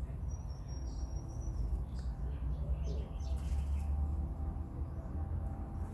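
Small birds chirping: one thin, high whistled note in the first second and a half, then scattered short high chirps, over a steady low rumble.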